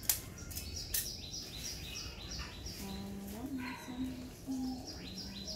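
A bird chirping a quick, steady run of short, high, falling notes, about three a second. Two sharp clicks come in the first second.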